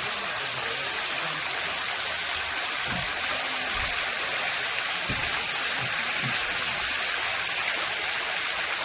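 Waterfall rushing: a steady, even hiss of falling water, with a few faint low bumps.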